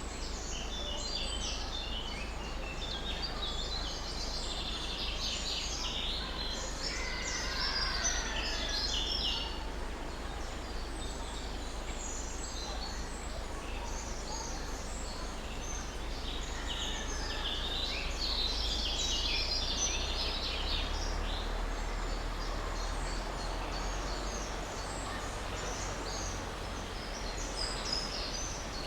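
Small birds chirping and twittering in busy clusters, thickest in the first ten seconds and again around two-thirds of the way through, over a steady low rumble of background noise.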